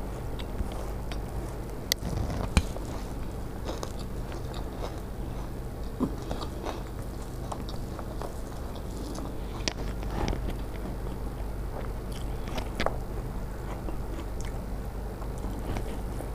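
Close-up chewing and biting of puffed rice mixed with pea curry, soft crunches and wet mouth sounds, with fingers scraping and gathering the mixture on a steel plate. Scattered short clicks, the sharpest about two seconds in, sit over a steady low hum.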